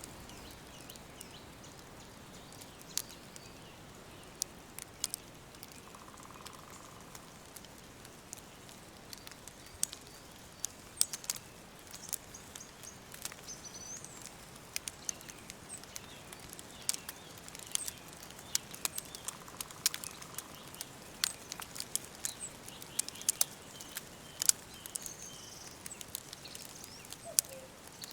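Nature ambience: many irregular sharp crackles and ticks over a faint steady hiss, with a few faint high bird chirps.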